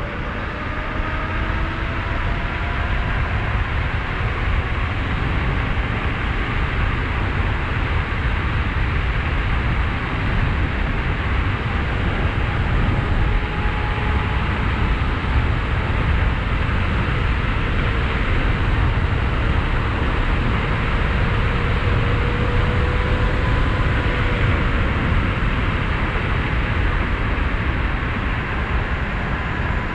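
Steady wind rush and buffeting on the microphone while riding an electric bike at speed, with a faint whine from the electric motor that drifts up and down in pitch.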